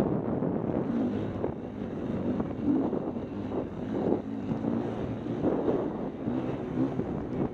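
KTM 250 EXC-F's four-stroke single-cylinder engine running under changing throttle, its pitch repeatedly rising and falling, with wind buffeting the microphone.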